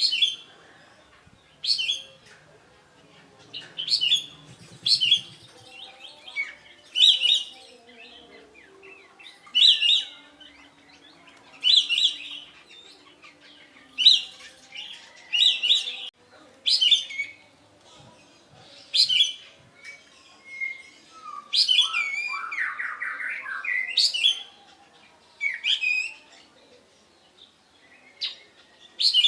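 Kapas tembak songbird singing: short, loud, sharp whistled notes repeated about every one to two seconds, with a longer warbling run a little past the middle.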